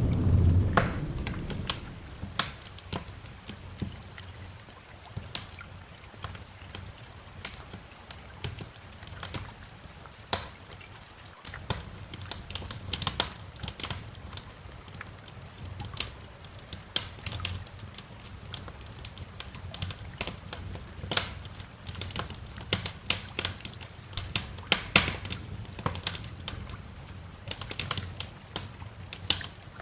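Wood fire crackling and popping, with many irregular sharp snaps over a faint low rumble. The tail of a thunder roll fades out in the first second or two.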